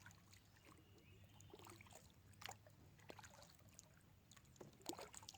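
Faint water dripping and small splashes around a kayak, with a few light knocks scattered through. Otherwise near silence.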